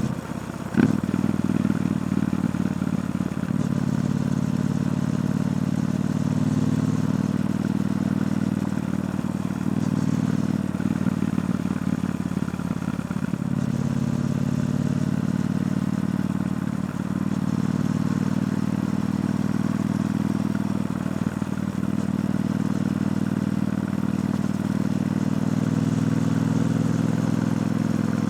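Triumph Bonneville T120's 1200 cc parallel-twin engine running through its stock exhaust, a steady note that rises and falls slightly in pitch with the throttle. A sharp click comes just under a second in.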